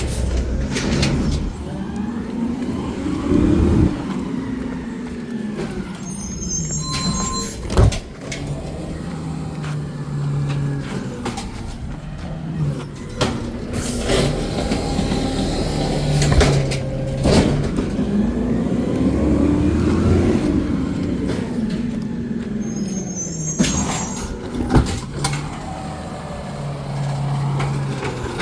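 Garbage truck working its collection route: the engine revs up and drops back twice, about a quarter and two-thirds of the way through, between steady running. Sharp clunks and short air-brake hisses come in between the revs.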